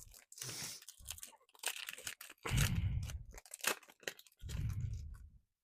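Foil Pokémon booster pack wrapper crinkling and tearing as it is opened, in about five rustling bursts with dull low thuds from the handling. It stops shortly before the end.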